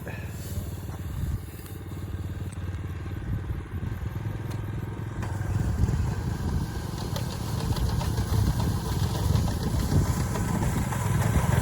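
Small engine of a walk-behind rice cutting machine running steadily as it cuts rice, growing louder over the second half.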